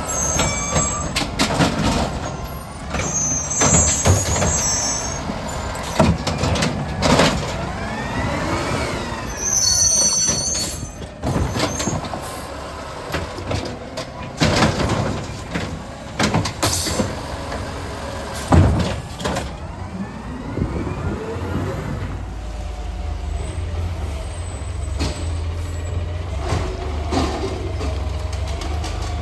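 Garbage truck working a collection route: the engine runs under a series of sharp bangs and clatters, with a rising and falling whine in the middle and high squeals, typical of air brakes, a few seconds in and again about ten seconds in. In the last third it settles into a steady low engine rumble with a wavering whine over it.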